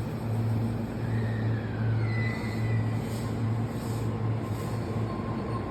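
Joban Line electric commuter train pulling out of the station: a low hum pulsing about one and a half times a second, with a thin steady electric motor whine setting in about halfway through.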